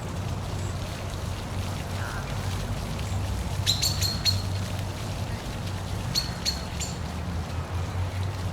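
Steady rush of a park waterfall under a low, even hum, with a bird giving two quick clusters of short, sharp chirps, about four and about six seconds in.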